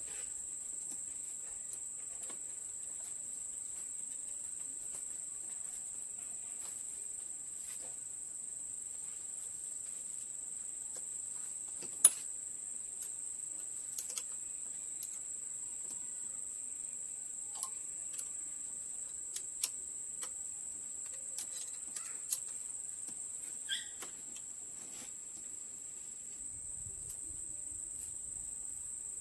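Crickets trilling steadily at a high pitch, with scattered light clicks and taps throughout, one sharper tap about twelve seconds in.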